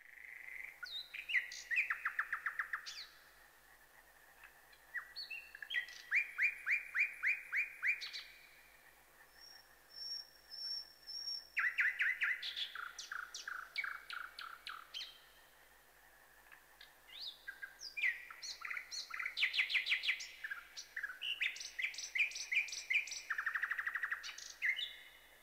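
A songbird singing in repeated phrases of quick, evenly spaced notes, each phrase a second or a few long, with short pauses between.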